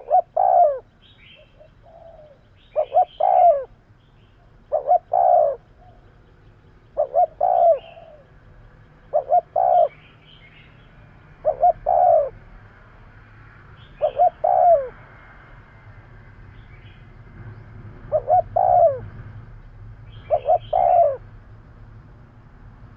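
Spotted dove cooing: about nine short phrases of a few low coos each, repeated every two seconds or so, with one longer pause midway. It is the male's advertising and territorial call, used as a lure to draw in wild doves.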